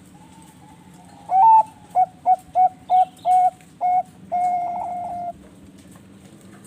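Zebra dove (perkutut, Bangkok-bred song type) singing: a loud opening coo, a run of about seven short clipped coos about three a second, then one long held note. Fainter coos from other doves come before it.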